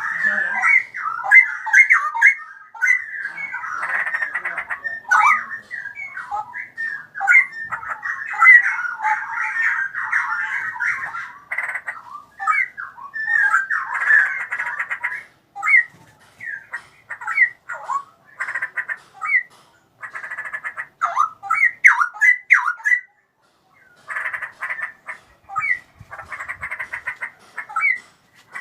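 Straw-headed bulbul (cucak rowo) singing: a long run of quick, gliding whistled notes, almost unbroken at first, then broken into phrases with short gaps and a pause of about a second in the last third.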